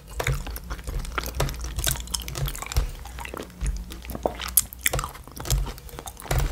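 Close-miked chewing and biting of food, with a run of small mouth clicks and smacks.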